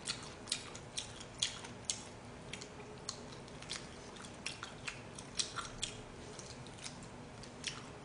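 Close-miked eating sounds: chewing and gnawing on a bone-in piece of jokbal (braised pig's trotter), as a run of irregular sharp clicks and smacks.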